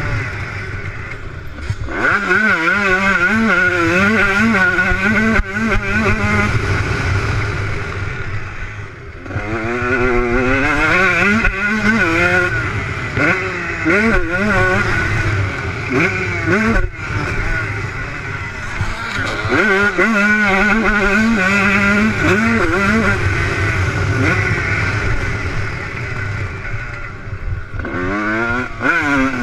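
Motocross bike engines revving hard, the pitch climbing and dropping again and again as the riders open and close the throttle and shift gears.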